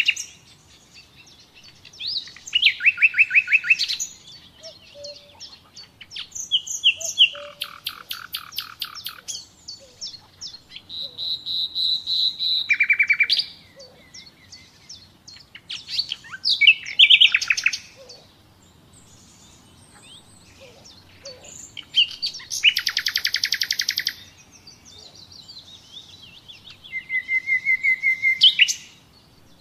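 Common nightingale singing: short phrases of rapid repeated notes and trills come every few seconds, with pauses between. One phrase, about twelve seconds in, builds steadily in loudness.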